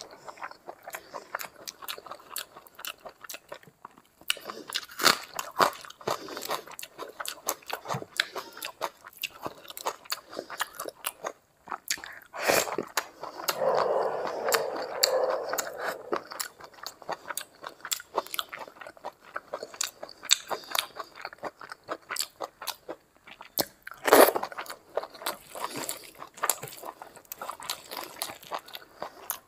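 Close-miked eating of rice and curry by hand: wet chewing with many sharp mouth clicks and smacks, and some crunching.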